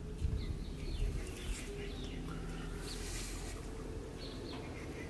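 Birds chirping and calling in the background over a low steady hum, with a few soft handling bumps in the first second and a half.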